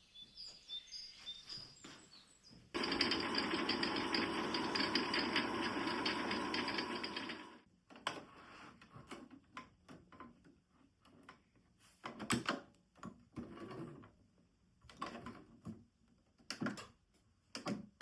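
Sewing machine stitching steadily for about five seconds, starting about three seconds in and stopping abruptly. After it come scattered soft clicks and rustles.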